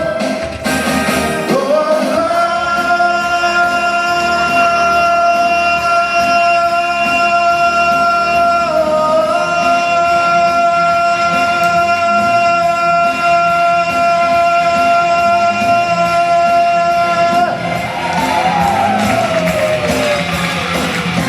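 Cantopop rock song with a full band, in which a singer holds one long high note for about fifteen seconds, then slides down near the end.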